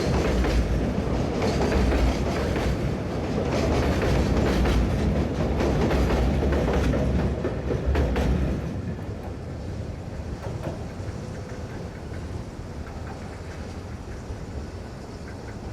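Container freight train rolling past, its wagon wheels clacking over the rail joints in a steady run of clicks. About eight or nine seconds in the noise drops away sharply as the last wagons pass, leaving a fainter fading rumble.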